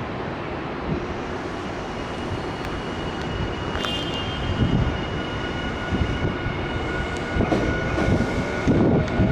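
Nankai electric train coming along the station platform, its rumble growing louder, with a run of low wheel thumps over the rail joints and a steady high whine joining in the second half.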